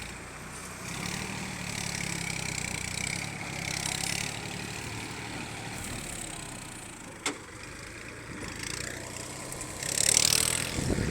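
Small tractor's engine running steadily while under way, with a sharp click about seven seconds in and a brief, louder rush of noise near the end.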